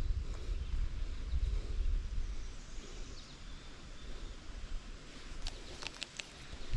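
Outdoor ambience: a low rumble, like wind or handling on the microphone, with faint bird chirps and a few sharp clicks about five and a half to six seconds in.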